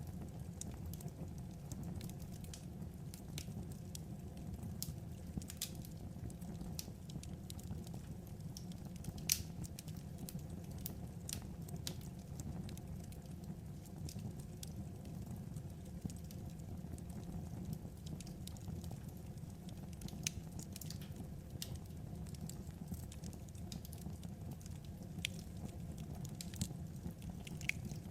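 Wood fire crackling: a steady low rumble with scattered sharp pops and snaps of burning logs.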